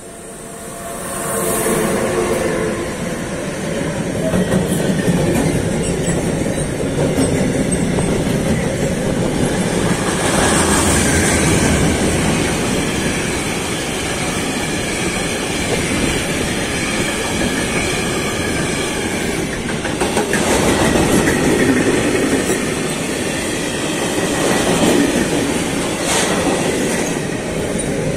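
Freight train passing close by behind a red DB Cargo electric locomotive. The locomotive's approach rises over the first two seconds with a few steady tones. Then comes a long, steady rumble and clatter of tank wagons and covered goods wagons rolling past, with brief louder clatters twice near the end.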